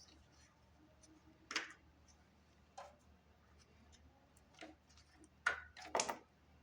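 A few light, scattered clicks and knocks, with the louder ones clustered near the end.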